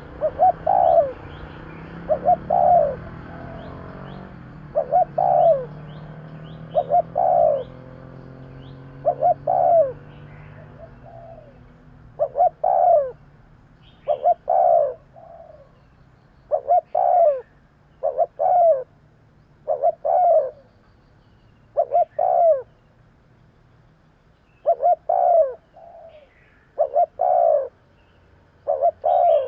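Spotted dove cooing its song: a short two-note coo repeated steadily about every two seconds.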